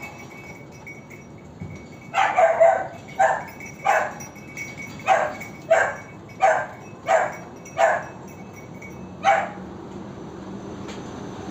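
A dog barking about ten times in a fairly even series, roughly one bark every two-thirds of a second, starting about two seconds in.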